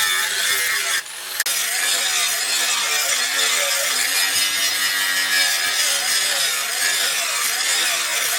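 Power tool abrading steel: a continuous rasping grind with a wavering motor pitch underneath, broken off briefly about a second in.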